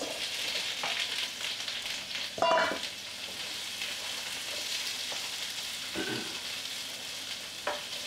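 Sliced bell peppers sizzling in a hot oiled skillet as they are tipped in and stirred. There is a brief metallic clank about two and a half seconds in and a couple of lighter knocks later.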